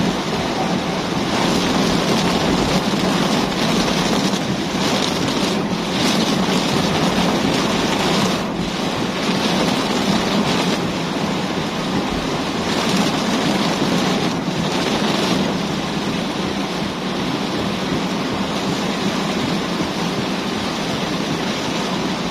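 Heavy tropical downpour: rain falling hard as one steady, dense hiss with small dips here and there.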